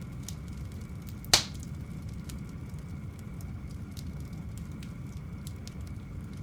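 Wood campfire crackling with scattered small snaps and one loud sharp pop about a second and a half in, over the steady low rush of a fast river.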